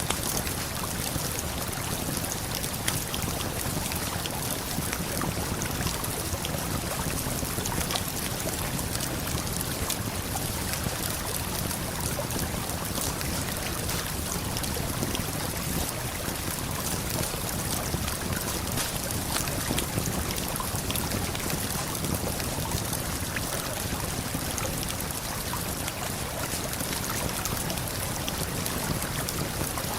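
Steady rush of a waterfall and flowing river, with a campfire crackling over it in frequent small pops and snaps.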